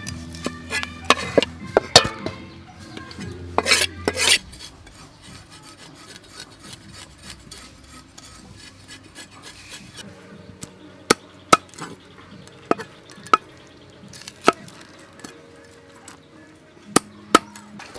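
Kitchen utensils knocking and tapping during cooking. A few short scraping and rubbing bursts come in the first few seconds, then single sharp taps every second or so.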